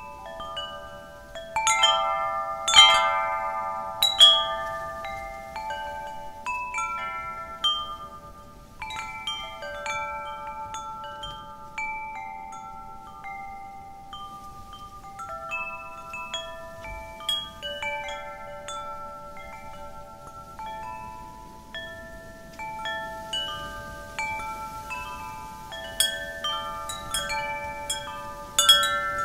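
Wind chimes ringing, their tubes struck irregularly by the wind, with many overlapping notes that ring on and fade; clusters of louder strikes come a couple of seconds in and again near the end, over faint wind noise.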